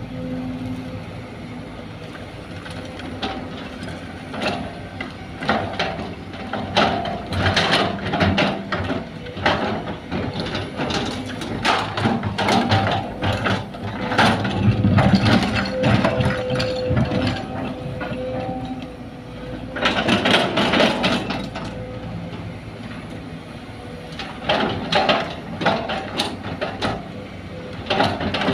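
Sumitomo hydraulic excavator working, its diesel engine running with a steady whine, over repeated metallic clanks and scraping as the bucket digs and loads soil into a dump truck. The clanks come in clusters, loudest in the middle and again about two-thirds of the way through.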